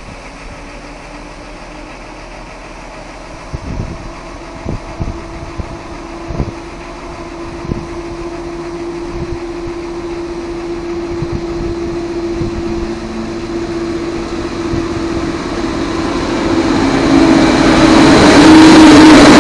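PKP Intercity electric locomotive hauling passenger coaches approaches and passes, growing steadily louder from a distant rumble to a loud rush of wheels on rails near the end, over a steady hum.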